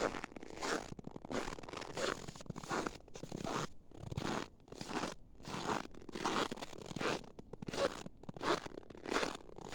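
Footsteps in snow, each step squeaking loudly, at a steady walking pace of about three steps every two seconds. This is the squeak that packed snow gives in hard frost.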